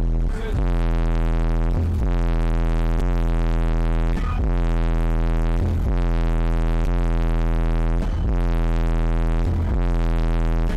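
Deep, loud bass tone from a car audio system, held steady with a brief break every second or two.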